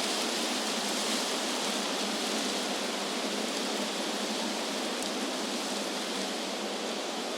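Wind rushing through trees, a steady, even hiss with no gusts or lulls.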